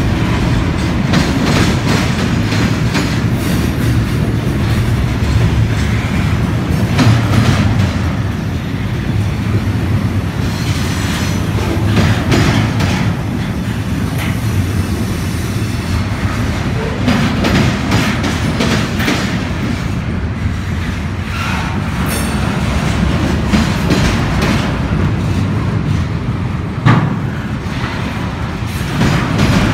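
Double-stack container train's well cars rolling past, steel wheels rumbling steadily and clicking over the rail joints. One sharp knock stands out near the end.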